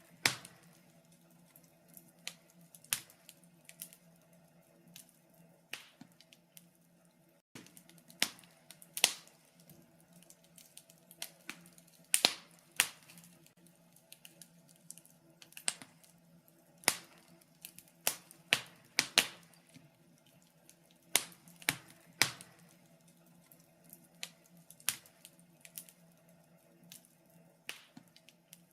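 Wood fire burning in a fireplace, crackling with irregular sharp pops, some much louder than others, over a faint steady low hum.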